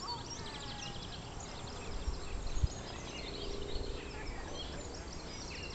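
Several songbirds singing, overlapping chirps and trills, over steady outdoor background noise, with a few low thuds about two and a half seconds in.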